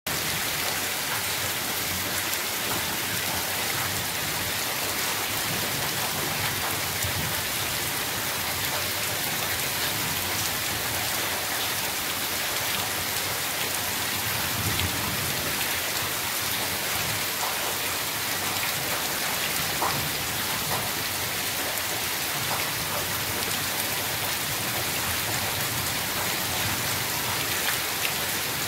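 Heavy monsoon rain falling steadily on trees and garden foliage: a dense, even hiss with scattered drop ticks.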